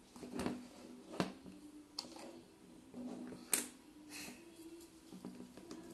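Plastic construction-block pieces clicking and knocking as they are handled and fitted together, a series of short sharp clicks about a second apart, the loudest about three and a half seconds in.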